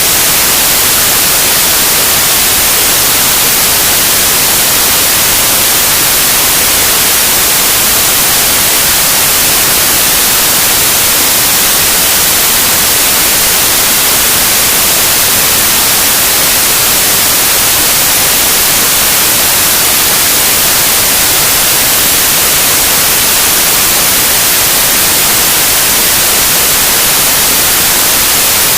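Loud, steady electronic white noise, an even hiss that does not change.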